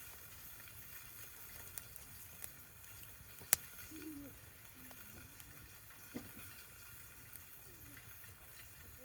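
Faint crackling and sizzling of campfire cooking, with a few sharp pops, the loudest about three and a half seconds in.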